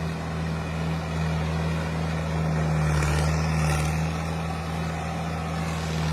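Mahindra tractor's diesel engine running steadily under a heavy load, hauling a trailer stacked with potato sacks. A brief hiss comes in about three seconds in.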